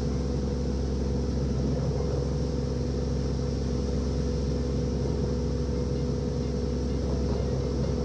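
A fishing boat's engine running steadily: a constant low drone with an even hum of several steady tones.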